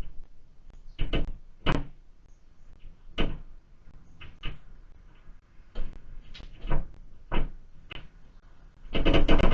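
Irregular sharp knocks and taps on a window-mounted bird feeder, a tit pecking at a piece of lard, with a quick flurry of taps near the end.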